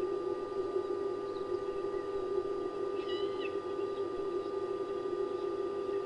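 A bird gives one short, half-second call about three seconds in, over a steady low hum and a thin steady tone.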